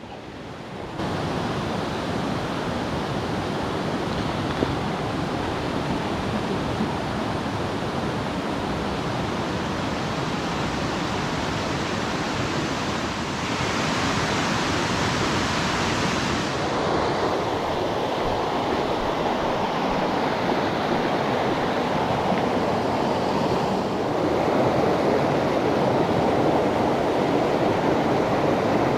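Mountain stream water rushing: a steady noise that grows a little louder about halfway through and again near the end.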